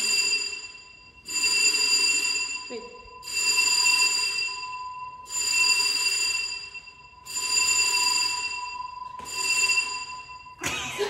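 An electronic ringing tone with several pitches, sounding in pulses about a second and a half long, repeating every two seconds, over a steady single beep-like tone.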